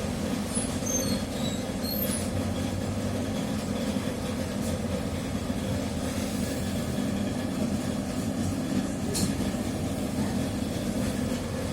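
Inside a moving TrolZa-5275.05 Optima trolleybus: its traction drive and Ishimbay rear axle run as a steady rumble with a held low whine. A few short high squeaks come in the first two seconds.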